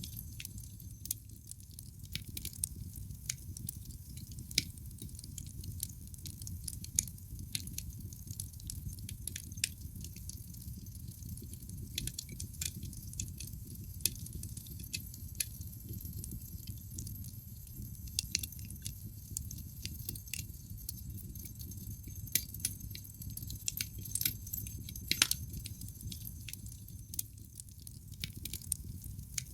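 Wood fire crackling in a fireplace: irregular sharp pops and snaps from the burning logs over a low, steady rumble of flames, with a few louder pops.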